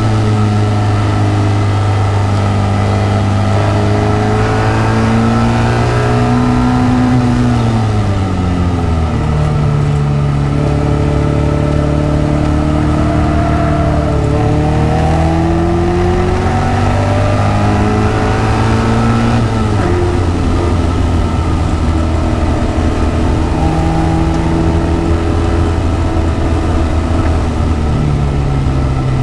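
Engine of an open-cockpit, Seven-style track car, heard from the driver's seat as it is driven hard on a circuit. The pitch climbs steadily over long stretches and drops sharply twice, about a third and about two thirds of the way through, as the car changes gear or slows for a corner.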